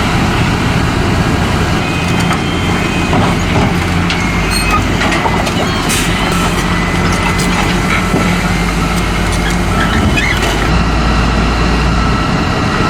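Heavy diesel machinery running loudly and steadily, with scattered knocks and clanks.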